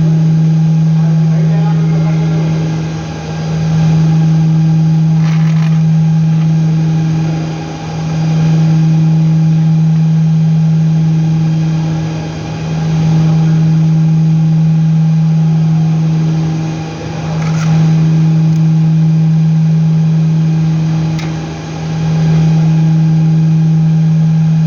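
Steady low machine hum at one constant pitch, dipping briefly in level about every four and a half seconds.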